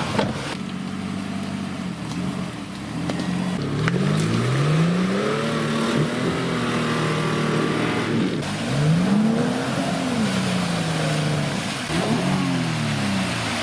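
Off-road SUV engines revving up and falling back again and again under load, in a run of short edited clips that change abruptly several times.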